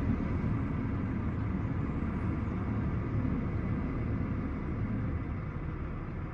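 Semi-truck diesel engine running with a steady low rumble.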